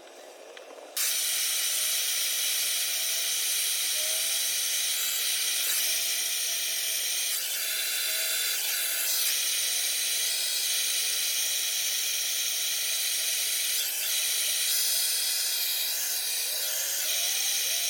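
A steady hiss of a pressurized spray, starting suddenly about a second in and cutting off at the end.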